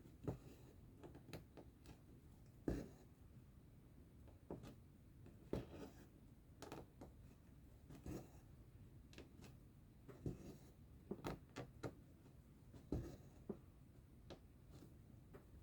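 Faint cross-stitching sounds: the needle popping through stiff stitching fabric and the thread being drawn through, heard as irregular soft ticks and brushing rustles about once a second, a few ticks louder than the rest.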